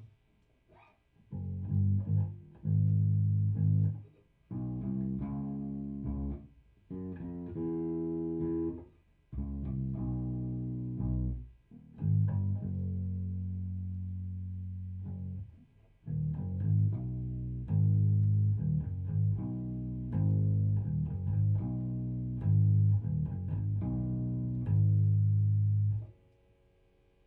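Electric bass tuned down a half step, played through a Fender Rumble 100 V3 bass combo amp: plucked phrases with short pauses between them and a long held note in the middle. The playing stops about a second before the end.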